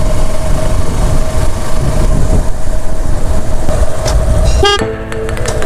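Wind buffeting the microphone over a steady motorcycle engine while riding, from a Suzuki Gixxer SF FI single-cylinder. A short horn toot sounds once near the end.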